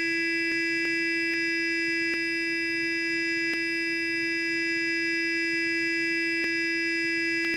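Sonic electric toothbrush buzzing steadily: a constant, even-pitched hum with many overtones, with faint clicks now and then.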